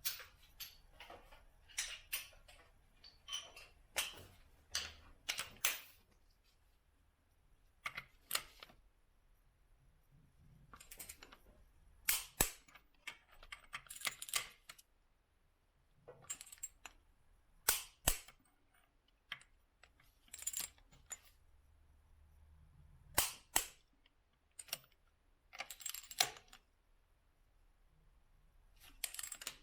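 Hand tools being worked: a string of sharp, irregular clicks and snaps, some single and some in quick clusters.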